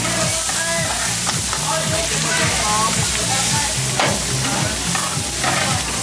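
Food frying in hot oil with a steady sizzling hiss, and a few sharp clacks of a utensil. Underneath runs music with a repeating bass line.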